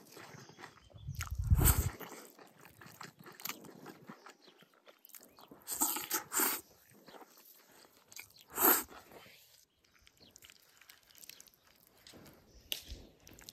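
Close-miked eating: chewing and crunching mouthfuls of rice with stir-fried green chilies and pork, in short bursts, the loudest about a second and a half in.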